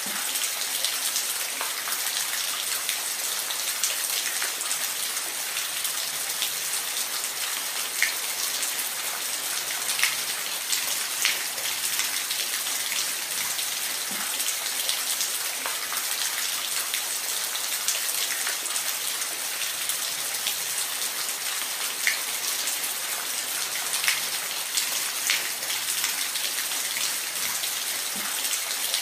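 Steady rain falling on a surface, a constant hiss with scattered louder individual drops.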